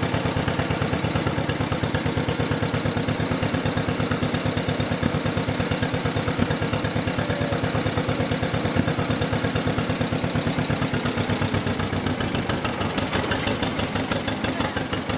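1955 John Deere 40 S two-cylinder tractor engine running steadily with an even, rapid beat while the tractor is driven along.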